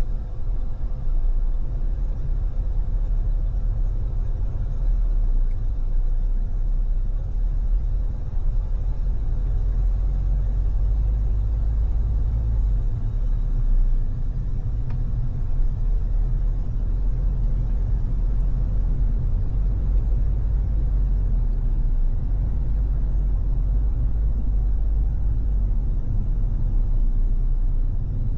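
Steady low rumble of a car cruising on a freeway: road and wind noise with no sharp events.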